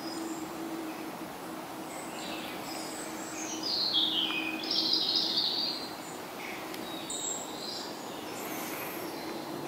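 Songbird singing outdoors: a few high, downward-sliding chirped phrases, the loudest about four to five seconds in, over a faint steady low hum.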